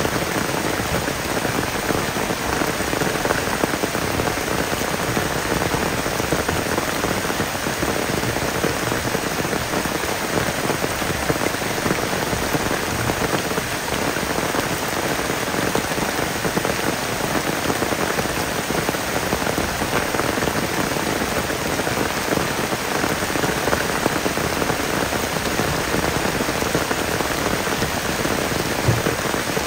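Heavy rain falling steadily on forest foliage and a tent, a dense, even patter.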